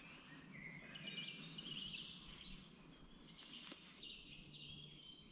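Faint birdsong: songbirds giving short, high chirps and warbling phrases, some of them sliding in pitch.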